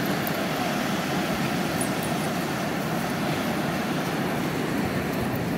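Steady rushing noise of surf and wind on a beach.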